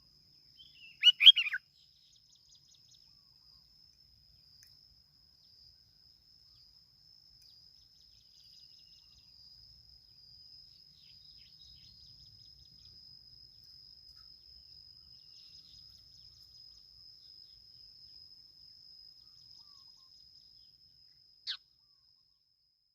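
Sooty-headed bulbul calling: a short, loud burst of falling, chattering notes about a second in, then a single quick downward note near the end. A steady, thin, high-pitched tone runs underneath throughout.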